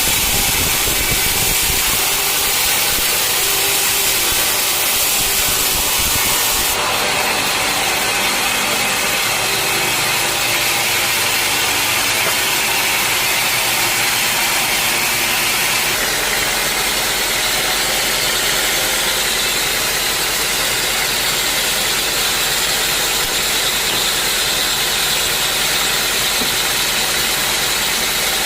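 Sawmill machinery running: a steady loud engine and saw noise, changing abruptly in character twice.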